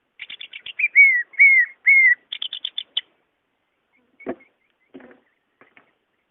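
Cucak ijo (green leafbird) singing: a quick run of short chirps, three loud down-slurred whistles, then another quick run of chirps. A little later comes a single thud, then a couple of faint knocks.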